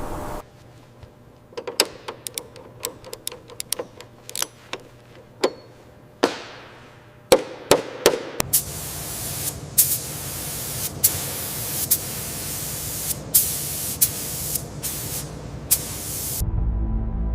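A run of sharp clicks and knocks from tools being handled, then a steady spraying hiss that keeps stopping and starting, with clicks between the bursts. Music comes in near the end.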